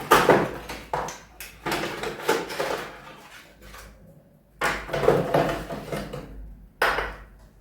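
Packaging and plastic casing of an automatic air freshener dispenser being handled and opened: rustling and knocking in several bursts, the longest in the first three seconds, then two shorter bursts about five and seven seconds in.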